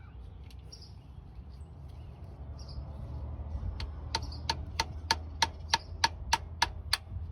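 Hammer tapping a new rear main seal into the engine block, struck through the old seal used as a driver so the new one isn't damaged. About eleven short, even taps at roughly three a second start about four seconds in.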